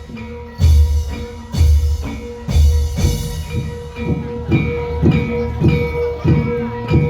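Javanese lengger dance accompaniment music: low drum strokes, about one a second at first and quicker in the second half, over a steady ringing tone.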